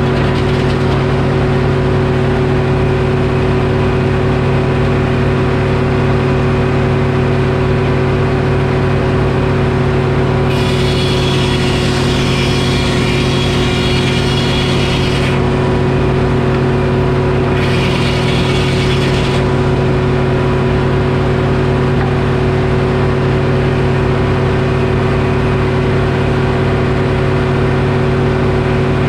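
Detroit Diesel engine of a Frick sawmill running at a steady speed. Twice a higher hiss joins it: once for about five seconds starting about ten seconds in, then again briefly a couple of seconds later.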